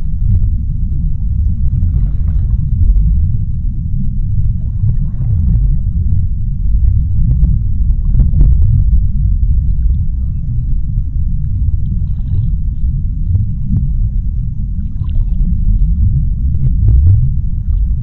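Underwater ocean ambience: a deep, steady rumble with faint swishes swelling and fading every few seconds.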